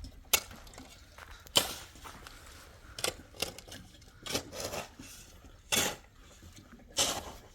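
A series of about eight sharp knocks or strikes, irregularly spaced, some with a short scraping tail.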